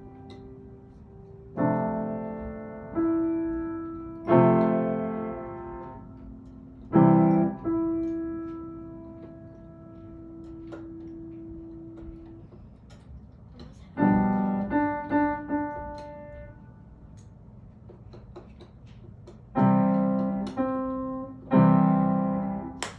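A child playing a slow piece on the piano: chords struck one at a time and left to ring out, with a few quicker notes in the middle and a long pause partway through.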